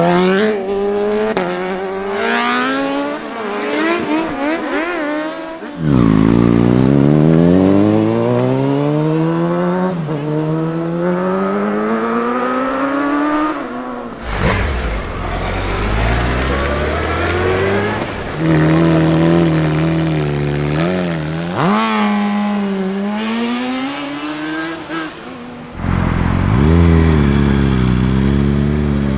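Sport motorcycle engines accelerating hard through the gears. The pitch climbs, then drops back at each upshift, over several separate runs that start and stop abruptly.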